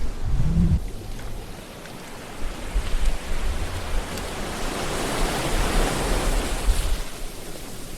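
Ocean surf: waves washing on a shore, one swelling up about halfway through and easing away near the end.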